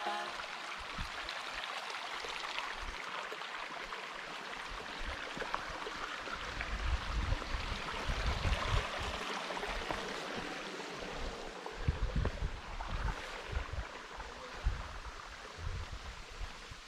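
Steady rushing noise like running water in a stream, with irregular low rumbles on the microphone, more frequent in the last few seconds.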